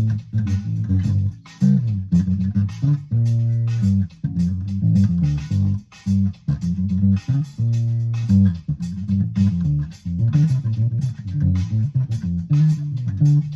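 Funk groove on a vintage electric bass guitar with a fat, round tone, playing a busy syncopated line with two longer held notes, over a drum kit keeping a steady beat.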